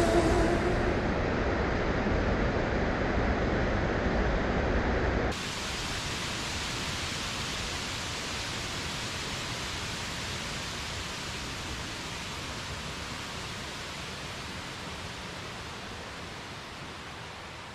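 Steady rush of a waterfall. It changes abruptly about five seconds in, turning thinner and hissier, then slowly fades out.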